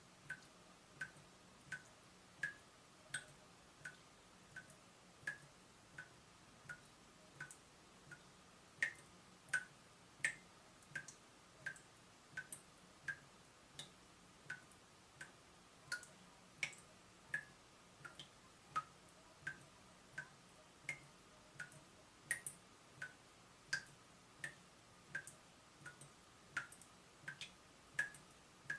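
Water dripping from a leaking tap: single drops falling about one and a half times a second, each a short, sharp plink with a brief ringing note, some drops louder than others.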